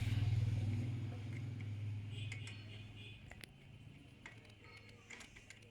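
A motorcycle engine running, its low hum fading away over the first three seconds, followed by scattered light metallic clicks and ticks of hand tools.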